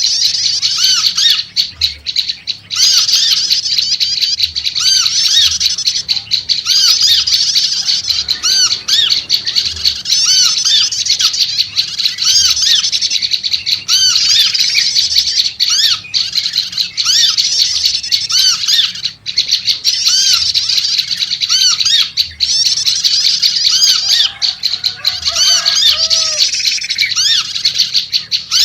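Prenjak lumut songbirds calling in a noisy, unbroken chatter of rapid, sharp, repeated high notes. A lower, bubbling call joins briefly near the end.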